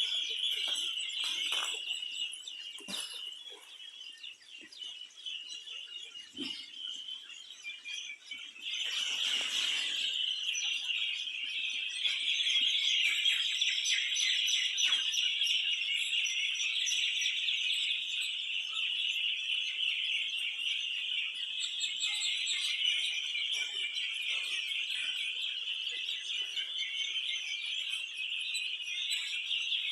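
A flock of birds chirping continuously in a dense, overlapping chatter, thinning for a few seconds early on and then fuller. About nine seconds in there is a brief rushing noise.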